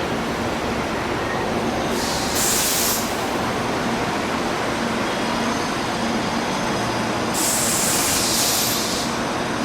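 Electric commuter train running with a steady rumble, with two bursts of air hiss from its air brakes: a short one about two seconds in and a longer one near the end.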